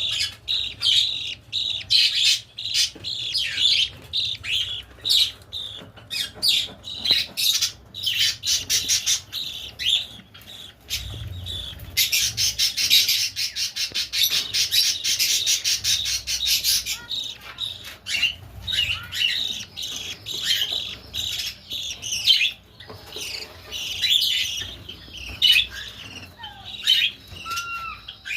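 Budgerigars chirping and chattering in quick, short calls. From about twelve to seventeen seconds in, one long run of very fast, even pulsed calls, the kind given while a budgie feeds its young.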